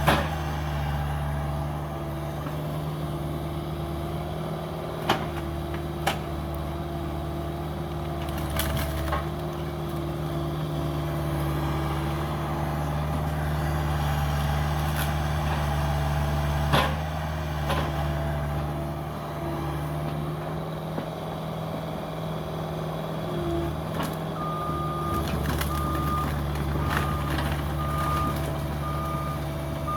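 Cat 305 mini excavator's diesel engine running steadily through demolition work, with a few sharp knocks and cracks of debris. Near the end a reversing alarm starts beeping, about once a second.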